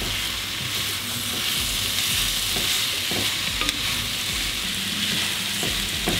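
Smoked sausage and ham frying with onion and carrot in sunflower oil, a steady sizzle, while a wooden spatula stirs them with occasional light scrapes against the pan.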